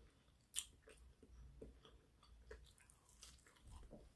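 Faint chewing of a French fry dipped in cheese sauce: scattered soft mouth clicks and smacks, the clearest about half a second in.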